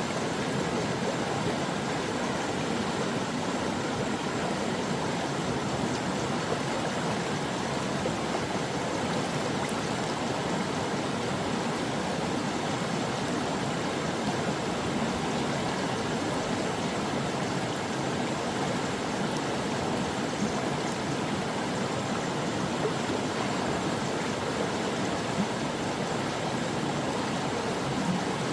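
A stream running steadily: a continuous, even rush of flowing water with no breaks or changes.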